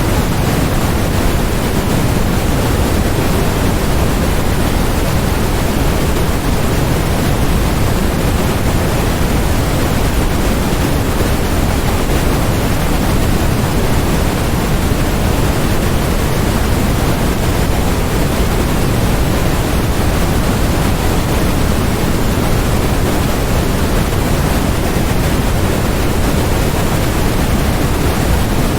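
Steady, unchanging electronic noise of the kind sold as white noise for focus, with no events or changes in it. Its weight sits in the low end, so it sounds closer to pink noise than to a flat, hissy white noise.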